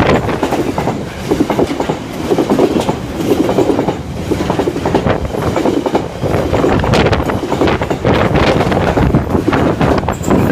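A train passing close by, its wheels clattering over the rails in a steady repeating rhythm.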